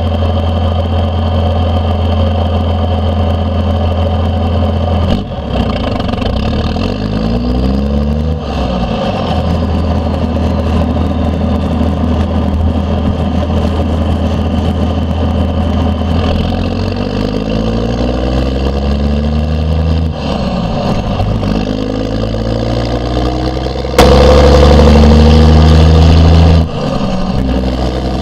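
The 5.9-litre 12-valve Cummins inline-six diesel of a 1992 Dodge D350, straight-piped through a 5-inch stack, running under way. Its pitch drops and climbs again several times as the truck shifts and pulls, with a faint high turbo whistle over the engine. Near the end there is a sudden, much louder stretch of about three seconds that cuts off abruptly.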